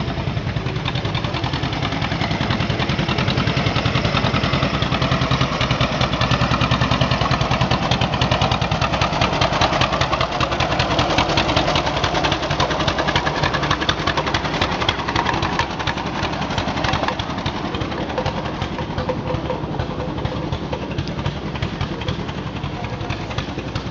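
A car engine running with a rapid, even firing pulse, growing louder toward the middle and easing off near the end.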